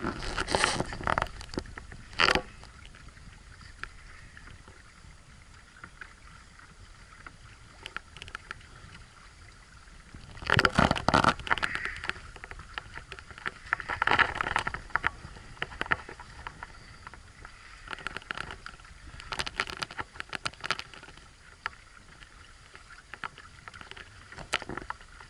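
Water splashing and slapping against a sailing catamaran's hulls in loud bursts every few seconds, over a steady rush of wind and water, with scattered sharp crackles.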